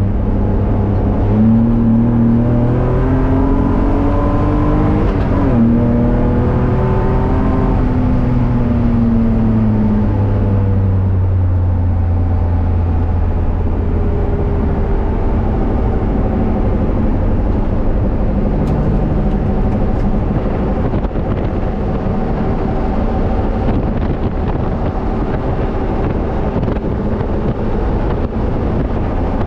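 BMW E30's engine heard from inside the cabin on track: the pitch climbs under acceleration, drops suddenly at a gear change about five seconds in, and climbs again. From about eight seconds it falls away as the car slows, then settles to a steadier, lower note over a constant road and wind rush.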